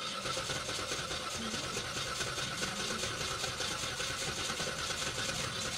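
2014 Kia Picanto's starter motor cranking the engine steadily, the engine turning over without catching: it cranks but won't start.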